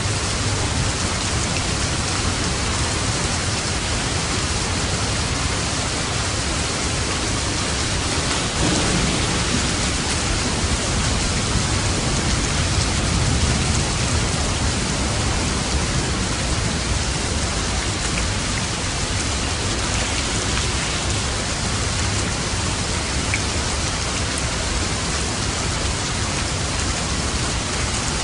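Steady rain, with a low rumble of thunder swelling and fading about a third of the way through.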